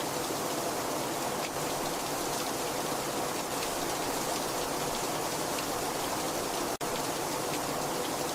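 Heavy rain falling steadily, a dense even hiss with faint drop ticks. It cuts out for a split second near the end, then resumes.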